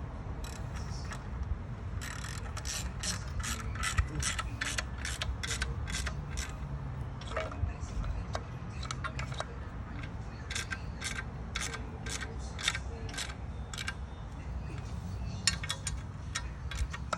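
Hand ratchet wrench clicking in quick, evenly spaced strokes, about two to three a second, in several runs with short pauses, as bolts are turned during a clutch installation.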